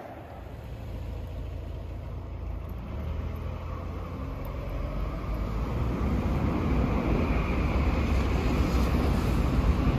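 Tokaido Shinkansen train running past on the tracks below, a low rumble with rushing noise that grows steadily louder from about five seconds in.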